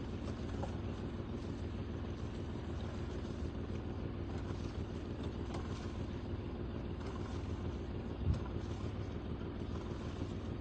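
A yacht's engine running steadily at low revs, with water and wind noise, while the boat moves in slowly under power. A single short knock comes about eight seconds in.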